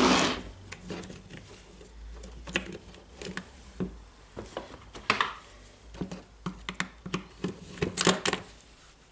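Irregular light clicks and taps of small plastic and metal parts being handled as a Makita DHR202 rotary hammer's carbon brush holder unit is unscrewed and taken out, with a brief louder scrape about five seconds in and a quick run of clicks near the end.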